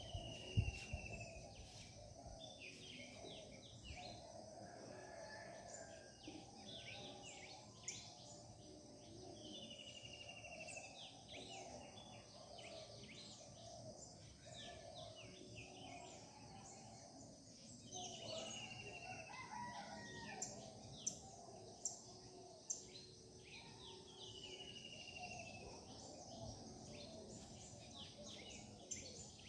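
Morning chorus of several birds singing at once: many short chirps and trills, with one bird repeating a clear falling whistle about every eight to nine seconds.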